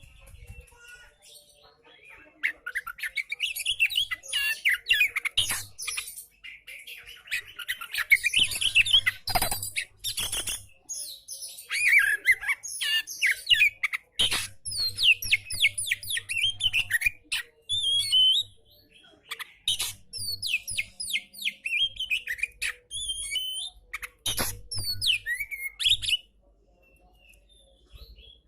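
Oriental magpie-robin singing a fast, varied run of chirps, whistles and quick downward-sweeping notes, stopping near the end.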